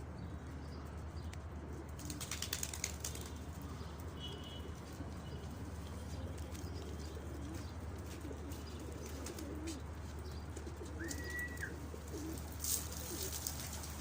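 Domestic pigeons cooing, with bursts of wing flapping about two seconds in and again near the end.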